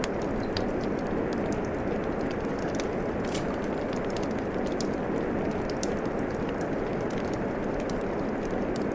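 Steady rain hiss mixed with the small, sharp crackles and pops of a wood fire burning in a fireplace, the pops irregular over the even wash of rain.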